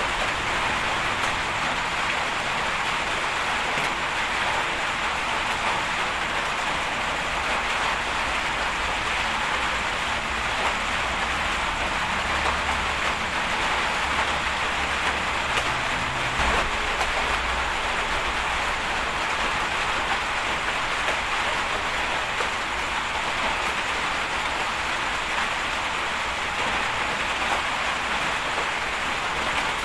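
Bulldozer working, heard as a steady rushing hiss over a low engine rumble that grows louder for a few seconds midway.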